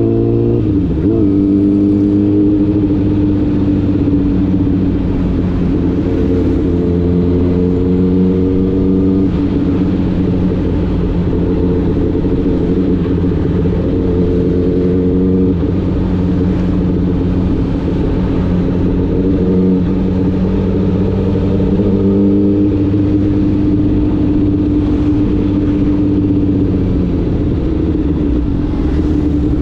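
Honda CBR1000RR's inline-four engine running while riding, its pitch mostly steady with slow small rises and falls and a quick dip and recovery about a second in, over wind and road noise.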